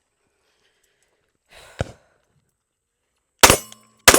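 Canik Mete MC9 9mm pistol firing: two loud shots about three quarters of a second apart near the end, the start of a string of fire. Before them, about halfway in, a short handling click.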